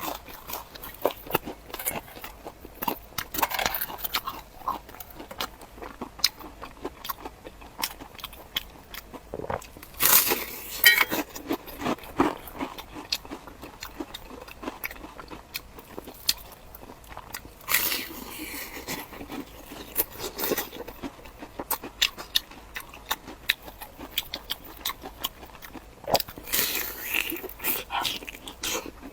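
Close-miked eating: crunchy bites and chewing, many small clicks between a few louder crunches about ten, eighteen and twenty-seven seconds in.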